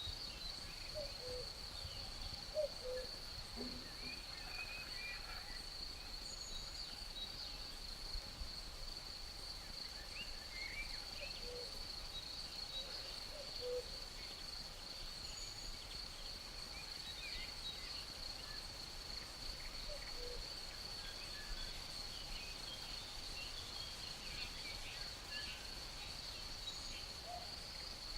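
Forest ambience: crickets trill steadily at a high pitch, with scattered small-bird chirps and, now and then, a low two-note falling call like a common cuckoo's, over a low rumble of breeze.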